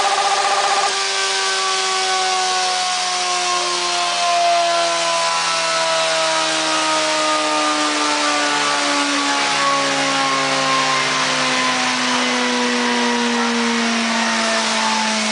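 Suzuki GSX650F inline-four on a chassis dynamometer: the engine cuts off from high load about a second in, then the engine and dyno roller wind down together with a steadily falling whine, the end of a dyno pull.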